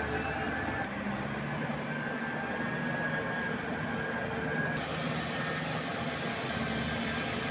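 Tractor engine running steadily while plowing through mud.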